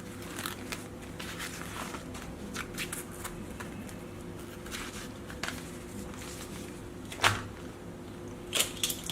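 Toys being handled: light rustling and scattered clicks of plastic being moved about, with a sharper knock about seven seconds in, over a faint steady hum.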